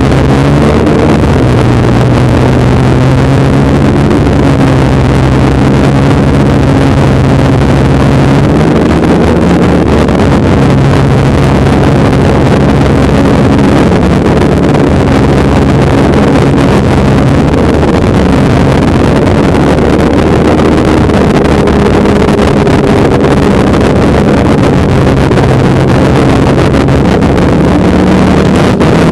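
Polaris snowmobile engine running loud under way, its pitch holding steady for stretches and shifting several times as the throttle changes.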